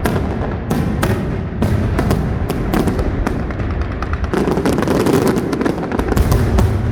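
Fireworks display: aerial shells bursting in quick succession over a continuous low rumble, with a dense run of crackling in the middle.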